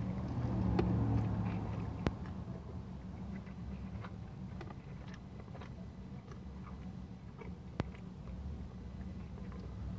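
A person bites into a sauce-dunked fried chicken sandwich and chews with soft, wet mouth sounds and no crunch. The bite is loudest about a second in, and two sharp clicks come about 2 and 8 seconds in, over a steady low hum.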